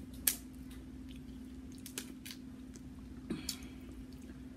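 Close-up mouth sounds of someone chewing seafood: a few sharp, separate wet clicks and smacks, with a short cluster of crackles about three seconds in as a shrimp shell is peeled by hand. A steady low hum runs underneath.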